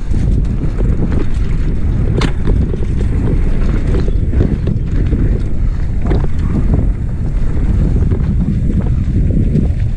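Loud wind rumble buffeting the microphone of a camera riding along on a mountain bike down a dirt trail, with a sharp knock about two seconds in and a few lighter rattles.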